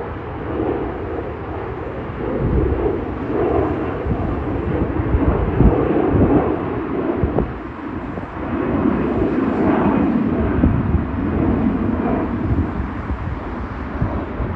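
Jet airliner passing close by, a loud steady engine roar with low rumble that swells twice.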